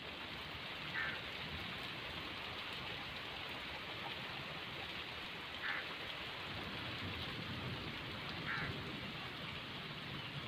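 Heavy rain falling steadily and splashing onto a puddled dirt road, an even hiss of many drops. Three brief higher-pitched sounds stand out over it, about a second in, near the middle and toward the end.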